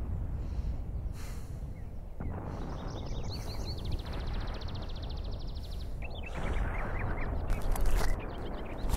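Birds chirping, with a rapid high trill in the middle, over a steady low rumble of outdoor ambience.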